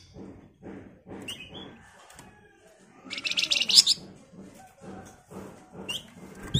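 Javan fulvetta (Flamboyan) giving a short, loud, rapid chattering rattle about three seconds in, with a few brief high chirps around it. Under it runs a lower rhythmic pulsing, about three pulses a second.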